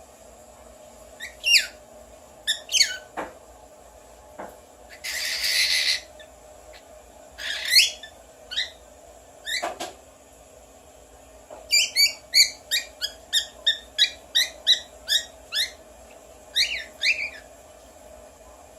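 Pet bird mimicking whistles: separate gliding whistle calls, a noisy burst lasting about a second about five seconds in, then a quick run of short chirping whistles from about twelve seconds in.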